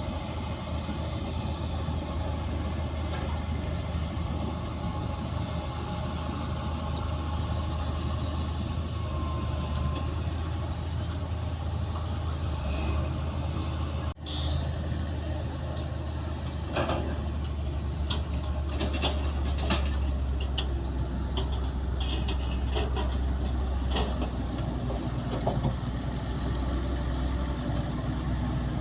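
Heavy diesel machinery, a crawler bulldozer working alongside a dump truck, running steadily with a deep engine hum. From about the middle on it comes with a series of short metallic clanks and knocks, with a brief break just before.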